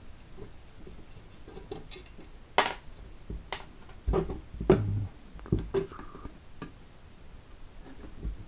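Tools and metal parts being handled during disassembly of the engine fan: scattered clinks and knocks, a sharp click about two and a half seconds in and a cluster of heavier knocks around four to five seconds in.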